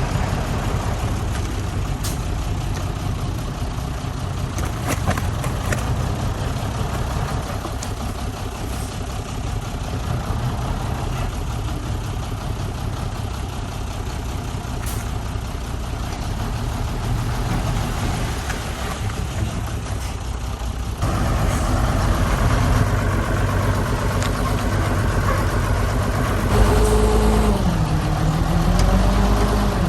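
Heavy diesel engines of earthmoving machinery running steadily. About two-thirds of the way through the sound switches abruptly to a louder engine, whose pitch dips and rises again near the end.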